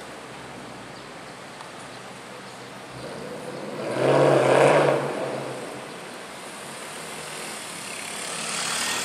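Ford Mustang pulling away and accelerating hard, its engine surging loudly for a second or two about four seconds in, then fading as the car drives off.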